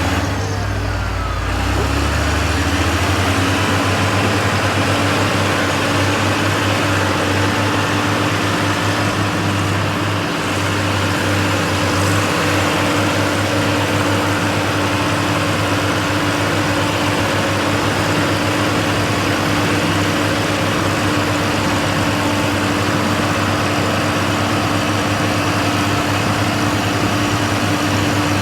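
Truck engine running steadily at a constant speed, a low rumble with an even hum.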